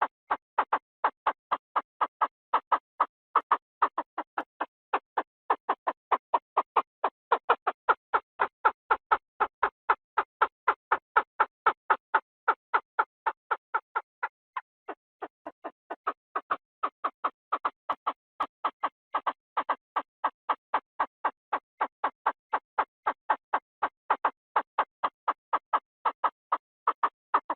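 Chinese francolin calling: a long, even series of short, sharp notes at about three a second, dipping briefly in loudness about halfway through.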